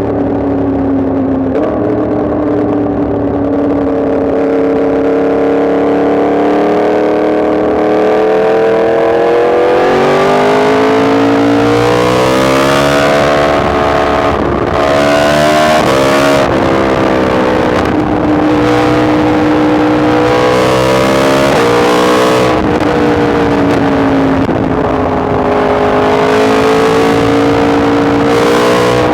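Yamaha MT-10 SP's crossplane inline-four engine running under way. Its note climbs as the bike accelerates, drops and climbs again several times around the middle with the gear changes, then settles to a steady cruise.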